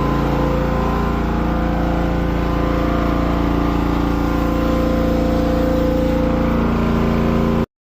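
An engine or motor running steadily at an even speed, a loud drone with a strong low hum; it cuts off abruptly near the end.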